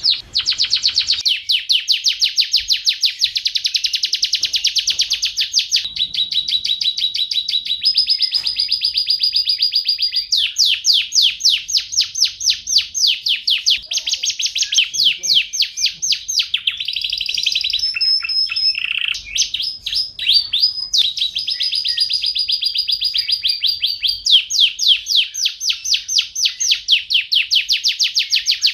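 Domestic canary singing a long, unbroken song: runs of very fast repeated notes, each trill held for a few seconds before switching to another, with a few held whistled notes between them.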